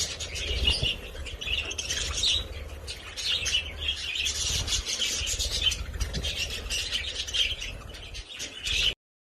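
Parrots chirping and chattering without pause over a low rumble, cutting off suddenly about nine seconds in.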